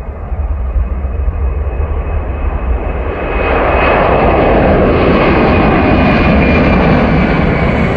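Airbus A300 jet airliner's engines at takeoff power, a loud roar with a steady high whine that swells about three and a half seconds in as the plane comes past.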